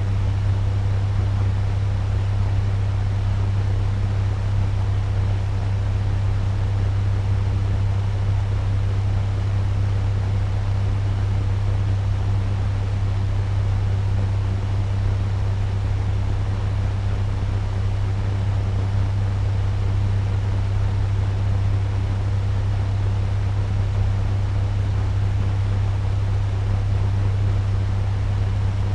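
Turbo fan running steadily at medium speed: an even rush of moving air over a strong, steady low hum.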